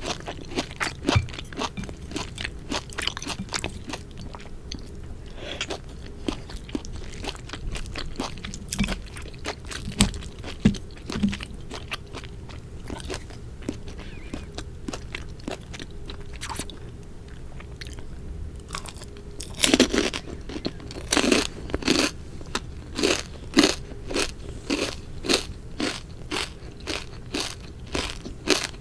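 Close-up chewing of crunchy food: light, clicky chewing at first, then, about two-thirds of the way through, loud crunching bites coming about twice a second.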